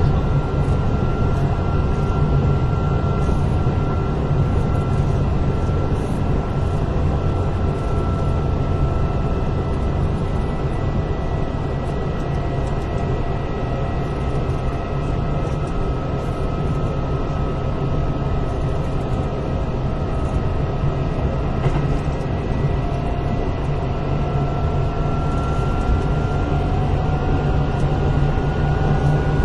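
Kintetsu 8000 series electric train running at speed, heard from inside car 8079: a steady rumble of wheels on rail with a thin motor and gear whine. The whine sinks slowly, then rises again from about 23 seconds in as the train picks up speed.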